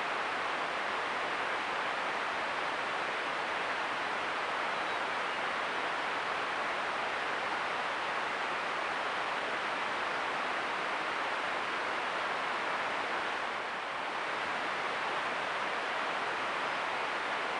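Steady hiss of rain falling, an even wash of sound without distinct drops or other events, easing slightly for a moment about fourteen seconds in.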